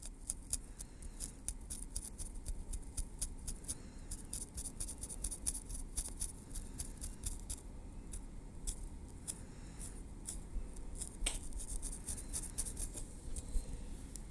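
Metal tweezers clicking and picking at the scalp and hair: an irregular run of small, sharp ticks, coming thickest in quick flurries.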